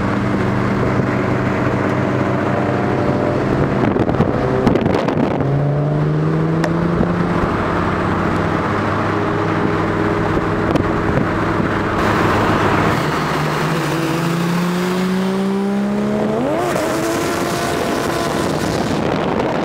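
Turbocharged 1JZ straight-six of a Mk3 Toyota Supra running under way, its pitch climbing slowly in long stretches, with a quick rev blip near the end.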